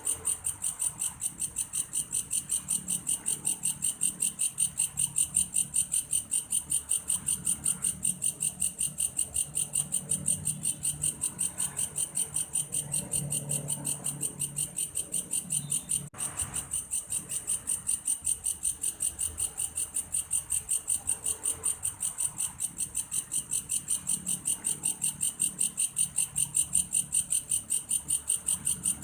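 Belalang kayu (wood grasshopper) calling: a steady, rapidly pulsed, high-pitched trill like a cricket's, repeating without pause, with a brief break about sixteen seconds in.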